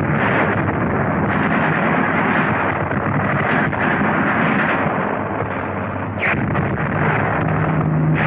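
Continuous din of battle on a 1940s film soundtrack: artillery and gunfire with explosions, one after another without a break. A steady low hum comes in near the end.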